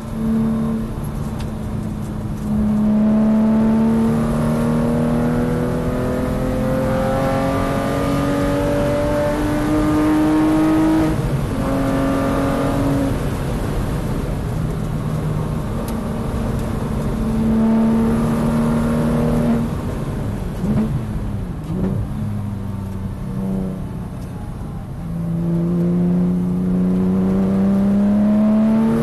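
Porsche Cayman track car's engine heard from inside the cabin, pulling hard with its pitch rising through the revs, shifting up about eleven seconds in. Around twenty seconds in it lifts off and drops in pitch as the car slows, then accelerates hard again with rising pitch near the end.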